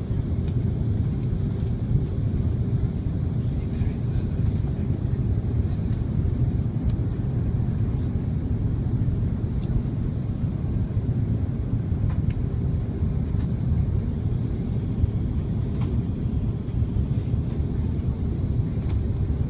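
Steady low rumble of a jet airliner's engines and airflow heard from inside the passenger cabin, with a faint steady hum above it.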